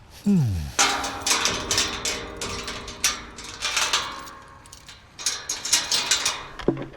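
Bursts of hard clattering and rattling, as of metal or hard objects knocking together. Just before the clattering there is a short tone falling in pitch.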